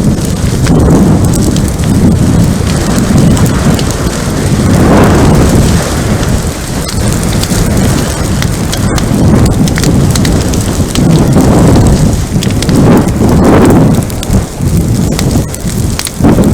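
Wildfire burning around a trail camera: a loud, low rushing roar that swells and ebbs every few seconds, with crackles and pops throughout.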